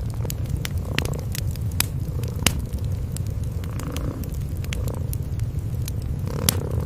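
Cats purring in a steady low rumble, with a wood fire crackling over it in scattered sharp pops, a few of them louder.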